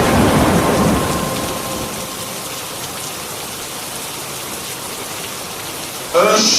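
Thunder rumbling and dying away over the first couple of seconds, over steady rain. Near the end a man's voice comes back in, chanting the call to prayer.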